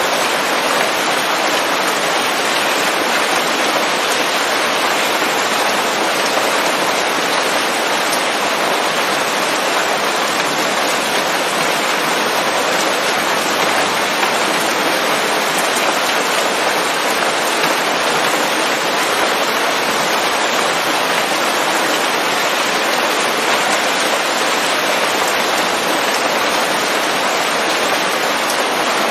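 Steady rain pattering on leaves, an even, unbroken hiss with no thunder.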